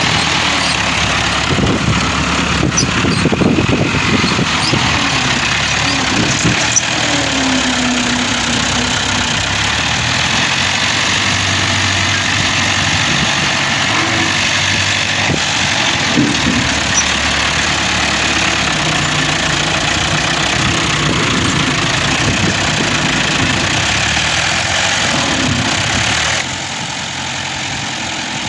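New Holland 640 tractor's diesel engine running steadily, getting quieter about two seconds before the end.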